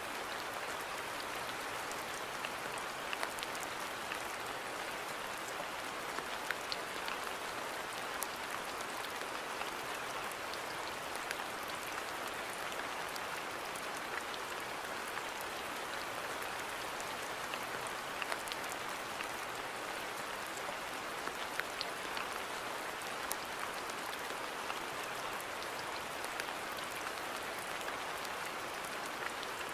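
Steady rain falling in a garden, an even hiss with scattered sharp drips and taps of individual drops.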